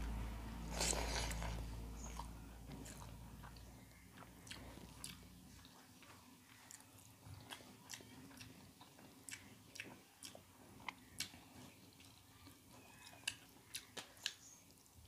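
Close-up mouth sounds of someone chewing hand-eaten watery fermented rice (pakhala): a short wet sound about a second in as the mouthful goes in, then scattered soft clicks and smacks of chewing. A low steady hum fades away over the first few seconds.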